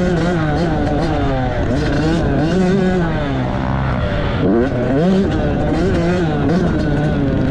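Dirt bike engine running hard, revving up and dropping off again and again as it is ridden around the track.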